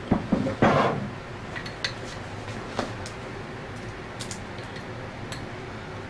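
Hard parts and hand tools being handled during a scroll pump rebuild: a quick cluster of knocks and clinks in the first second, then scattered light clicks.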